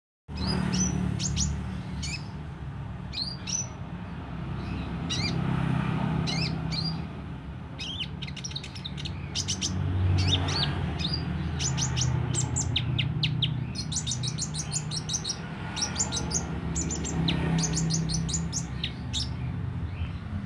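A sunbird singing: a string of sharp, high chirps and fast trilled runs, busiest in the second half, over a steady low rumble in the background.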